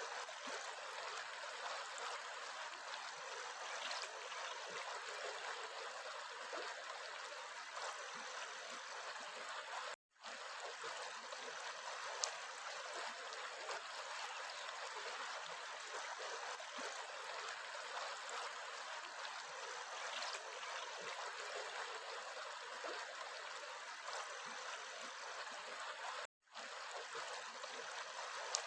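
Steady running water of a stream, an even rush with no low rumble. It cuts out for an instant twice.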